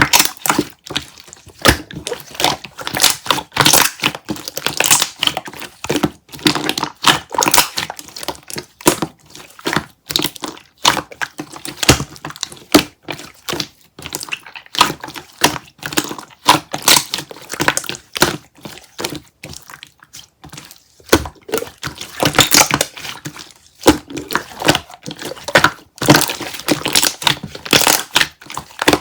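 Close-miked crunching and crackling, many irregular crunches a second, as strawberries and bananas are bitten and chewed.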